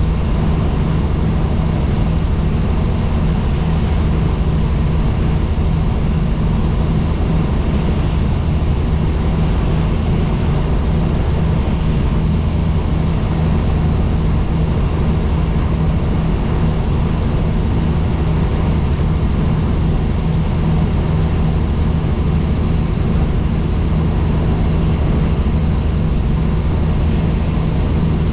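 Tour helicopter in steady flight: its engine and rotor give a constant low drone with no change in pitch or level.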